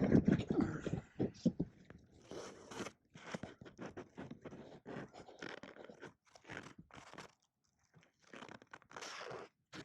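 Irregular crunching and crackling in short bursts, loudest in the first second, then scattered smaller crunches.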